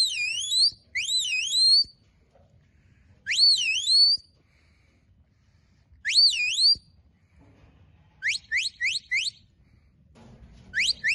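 Handler's whistle commands to a working sheepdog: short high sliding whistles that dip and rise, given in groups with pauses between, then four quick rising notes about eight seconds in, and another whistle starting near the end.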